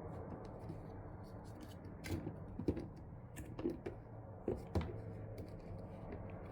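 Scattered light clicks and knocks, a handful over a few seconds, from a vacuum cleaner being handled as it is opened to show the cat hair it has collected.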